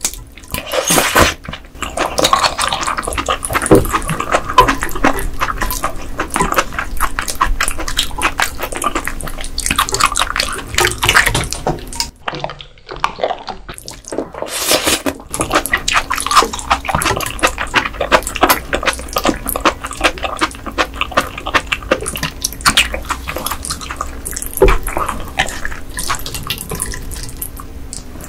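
Close-miked wet eating sounds of raw ice gobies: chewing, slurping and smacking, as a run of many small wet clicks. There is a short pause about twelve seconds in.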